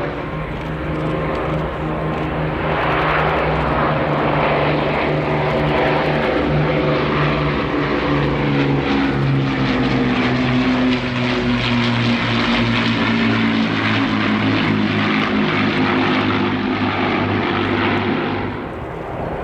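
Piston engine drone of a World War II propeller warbird flying past, a steady pitched hum whose pitch slides gradually down through the middle and eases near the end.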